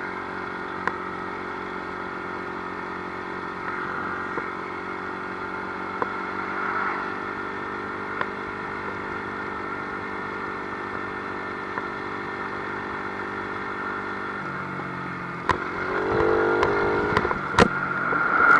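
Small 50cc dirt bike engine running at a steady pace, with occasional knocks and rattles. About fifteen seconds in the engine note drops, then picks up and gets louder, with several sharp clacks near the end.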